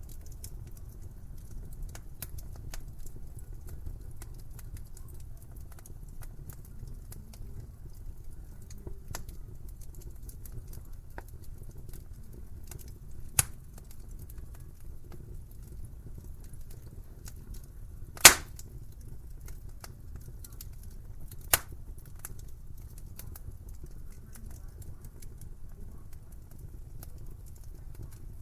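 Wood fire in a fireplace crackling, with a low steady rumble of the flames under a stream of small crackles. Three sharper pops of burning wood stand out, the loudest a little past the middle.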